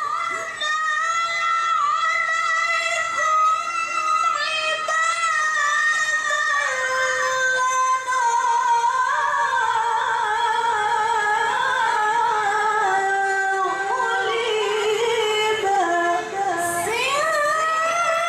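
A woman's high voice in melodic Quran recitation (qira'ah), drawing out one long ornamented phrase with a wavering vibrato whose pitch slowly sinks. Near the end she breaks off briefly and starts a new phrase with a glide back up to a high note.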